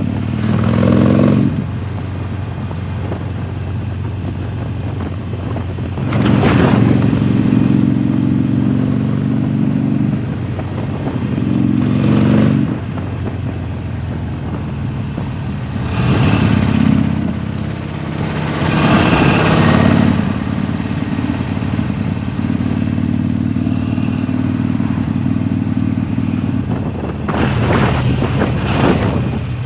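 A 2019 Harley-Davidson Sportster Forty-Eight's air-cooled V-twin, heard on the move through a Jekill & Hyde valve exhaust. It runs steadily, broken by about six louder throttle surges that rise in pitch, each lasting a second or two.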